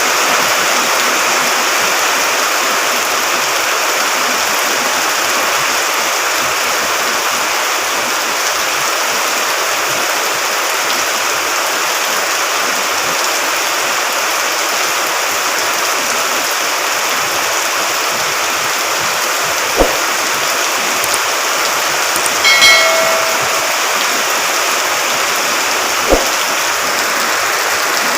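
Steady rush of flowing water after continuous rain. Two sharp knocks and a short high-pitched squeal break through it in the last third.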